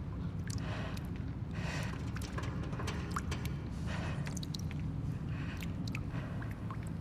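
Abandoned-building ambience soundscape: a steady low rumble with small clicks, ticks and short noisy swells scattered irregularly throughout.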